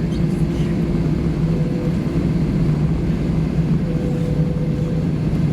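Steady droning cabin noise inside an Airbus A320 on the ground after landing, with its engines running at idle. A constant low hum runs under it, and a faint higher tone rises above it for about a second, about four seconds in.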